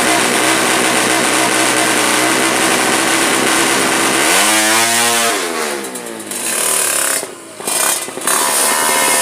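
Yamaha Jupiter motorcycle engine built to drag-race spec with full compression, running fast and steady. About four seconds in it is revved up once and falls back. The sound dips twice briefly before it settles into steady running again.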